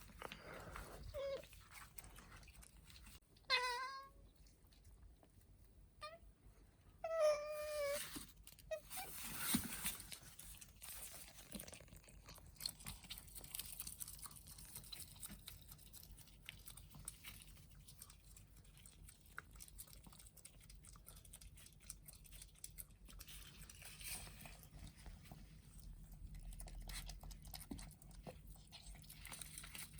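A small pet animal gives two short, wavering, pitched calls a few seconds apart, followed by quiet, faint chewing sounds as it eats.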